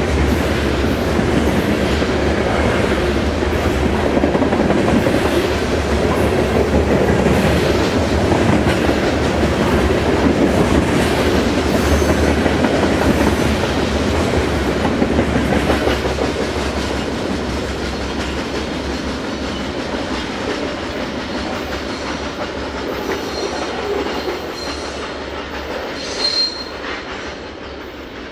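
Railroad cars rolling past, the wheels clicking over the rail joints in a steady clickety-clack that holds for about sixteen seconds and then slowly fades as the train moves off. A brief high wheel squeal comes near the end.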